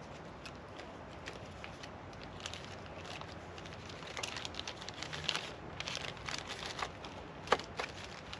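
Packaging rustling and crinkling in short, irregular bursts as it is handled and unwrapped, with one sharp click about seven and a half seconds in.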